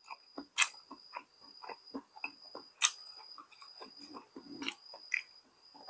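Close-up mouth sounds of a person chewing a mouthful of rice wrapped in a steamed pumpkin leaf: irregular soft wet smacks and small clicks, a few a second.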